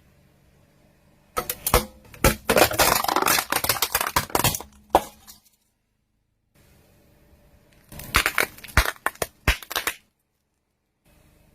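Car tyres rolling over and crushing crunchy objects: two spells of dense crackling and sharp snapping, each a few seconds long, each cut off abruptly.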